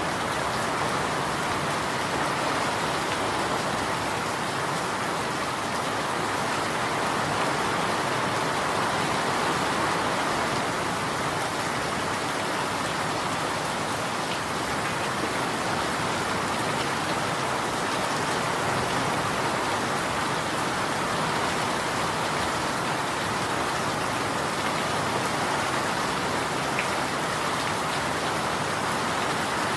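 Steady rain falling and pattering on surfaces, an even hiss of drops with no breaks.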